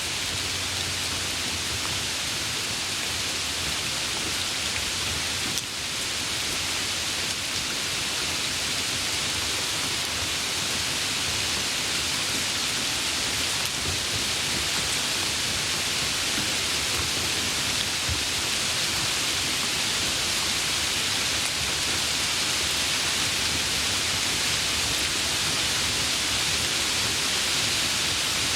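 Steady rain, an even hiss of falling drops, with a brief dip in level about six seconds in.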